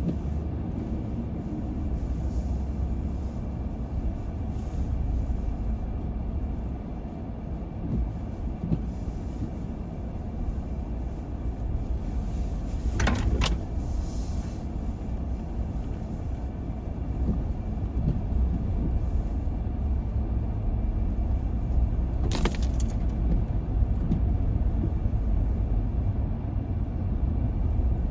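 Car driving along a road, a steady low rumble of engine and tyre noise heard from inside. Two brief sharp noises stand out, about halfway through and again later.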